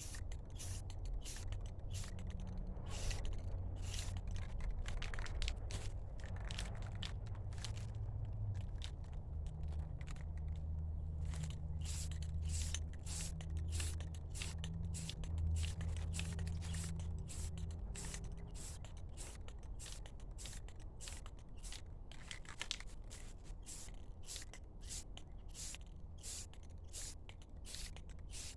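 Repeated short scraping strokes, about two to three a second, over a low steady hum that fades out about two-thirds of the way through.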